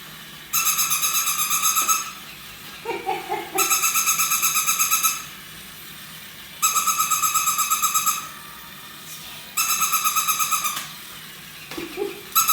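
Battery-powered toy robot dog playing its electronic sound through a small speaker: a high-pitched, rapidly pulsing tone about a second and a half long, repeated four times roughly every three seconds, with a fifth starting near the end.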